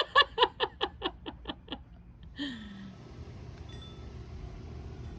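A person laughing, a quick run of 'ha' pulses fading out over the first two seconds. Then, after a sudden change, a steady even hiss of rain.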